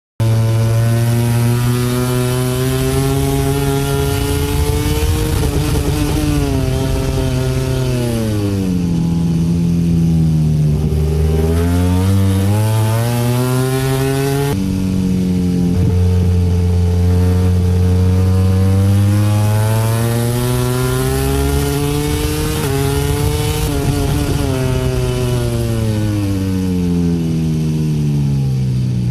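MotoGP racing motorcycle engine at speed, heard from on board. The engine holds high revs, drops away twice as the bike slows and then climbs back up, and changes suddenly about halfway through.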